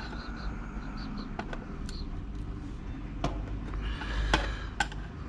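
A handful of light, irregular clicks and taps from small tools and electronic parts being handled while a computer circuit board is taken apart, over a low steady hum.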